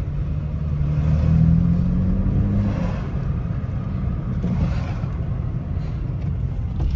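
Car engine and exhaust under way, pulling harder and rising in pitch about a second in, then settling back to a steady cruise over road rumble.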